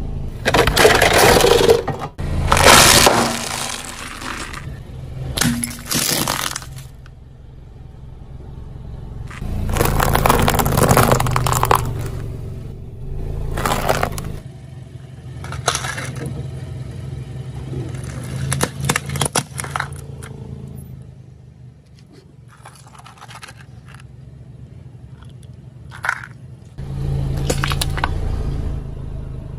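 Objects being crushed under a car's tyre: repeated bursts of crunching, cracking and scraping, loudest at the start, around ten seconds in and near the end. The car's engine runs low underneath.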